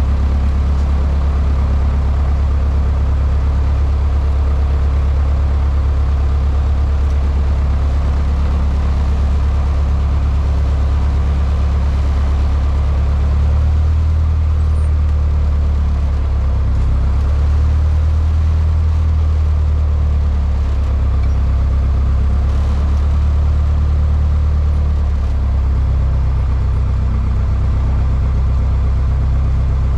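Cessna 152's Lycoming O-235 four-cylinder engine and propeller running with a steady, loud drone, the pitch shifting slightly about 14 seconds in and again near 26 seconds.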